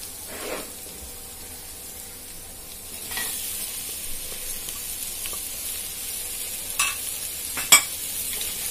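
Onion-spice masala sizzling in a stainless steel pan as boiled potato chunks are added and stirred in with a wooden spoon, the sizzle growing louder about three seconds in. Two sharp knocks near the end, the second the loudest.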